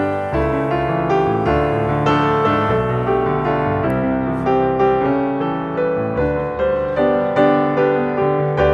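Background piano music: gentle notes struck in a steady pulse, each ringing and fading.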